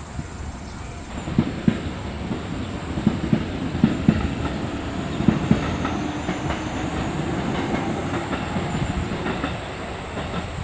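A passing train: wheels clacking over rail joints in pairs, about four pairs over the first half, then a steady rumble with a faint hum that eases off near the end.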